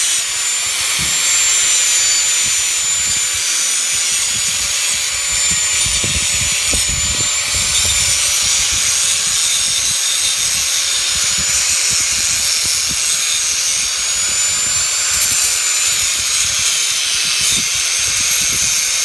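Power grinder grinding down a weld on a steel exhaust pipe, ahead of a second welding pass over a hole in the bead: a steady high whine over hissing grinding noise, unbroken.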